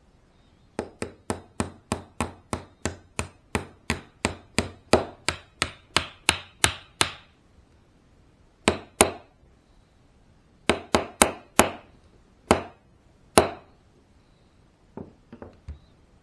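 Repeated sharp hammer taps, about three a second for six seconds, then slower scattered taps and a few softer ones near the end.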